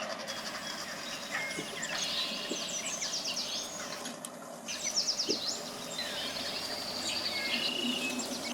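A songbird singing short phrases of rapid, high, quickly repeated notes, a new phrase every two to three seconds, over steady outdoor background noise, with a few soft knocks in between.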